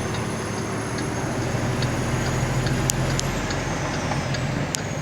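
Semi truck's diesel engine running steadily with a low hum, and a few faint clicks over it.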